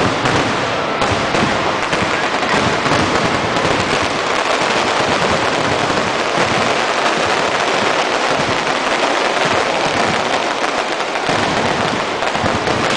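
Aerial fireworks shells bursting in a dense, unbroken barrage of bangs and crackle, with no pause.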